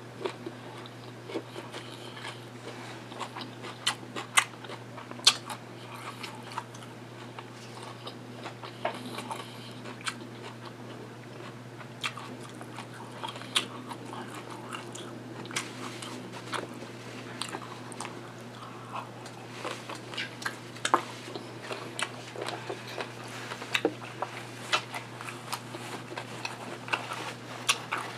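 Close-miked chewing and biting of birria tacos: wet mouth sounds with scattered crunches and clicks, over a steady low hum.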